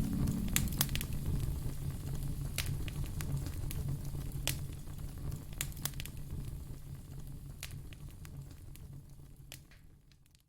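Wood fire crackling in a fireplace: irregular sharp pops and snaps over a low rumbling hiss, fading out gradually toward the end.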